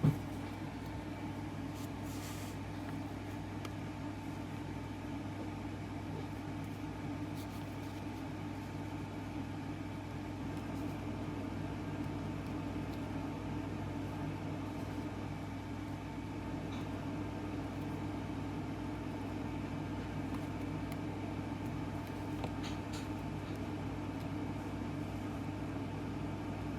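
Steady low mechanical hum, even throughout, with a few faint clicks.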